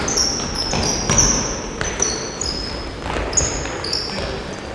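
Basketballs bouncing on a court floor with many short, high-pitched sneaker squeaks from players moving, often overlapping.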